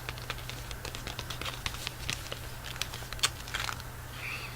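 Crinkling and tearing of a chocolate bar's wrapper as it is opened: a run of small crackles with one sharper snap about three seconds in, over a steady low background hum.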